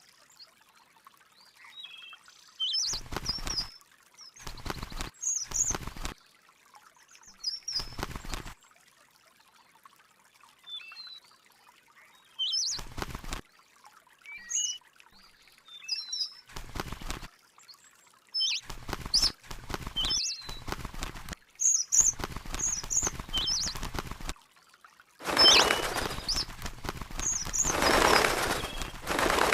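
A small bird chirping with short, high calls that glide up and down. These are broken by about a dozen short bursts of noise lasting under a second each, and by a longer stretch of noise about four seconds long near the end.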